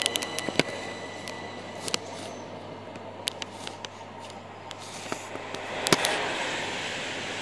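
Interior of a passenger train carriage as the train comes to a stop at a platform: steady low running noise with scattered clicks and knocks, then a hissing rush about six seconds in.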